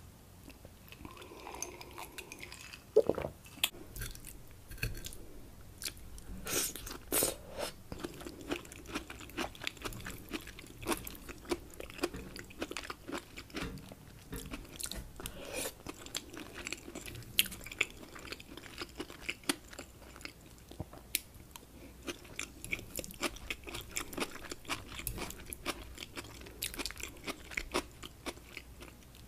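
Close-miked chewing of mouthfuls of rice with shrimp and scallops, many short clicks and mouth sounds following one another throughout.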